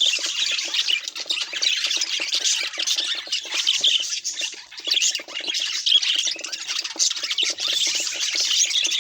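Budgerigars chattering: a dense, continuous stream of rapid chirps, squawks and clicks.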